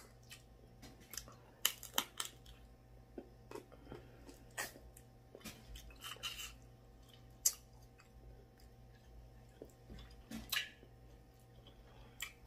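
A person chewing shrimp, with irregular sharp mouth clicks.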